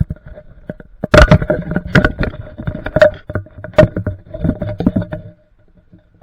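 Irregular loud knocks and rattles inside a car, with a faint steady tone underneath; they start about a second in and stop about five seconds in.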